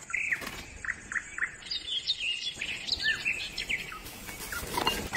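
Small birds chirping: many short, high chirps in quick succession, some falling and some rising in pitch.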